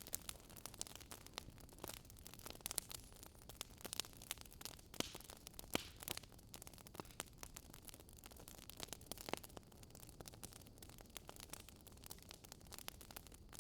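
Wood fire crackling softly: irregular sharp pops and snaps over a faint steady hiss.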